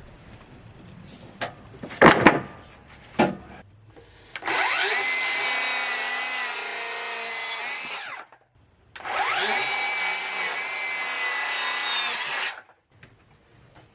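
Two sharp wooden knocks, then an electric saw cutting cedar boards twice. Each cut starts with a rising whine, holds a steady whine for about four seconds and stops abruptly.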